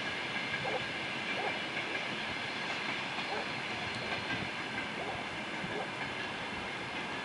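Freight train of flatcars hauled by a 2TE twin-section diesel locomotive, rolling past: a steady rumble of wheels on the rails with a high whine running over it.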